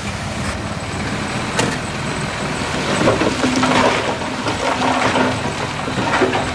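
Heavy diesel construction machinery running, with scattered knocks and rattles over the engine noise.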